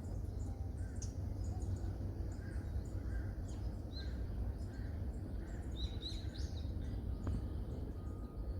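Several wild birds calling: many short, high chirps and softer, lower notes repeating, over a steady low rumble.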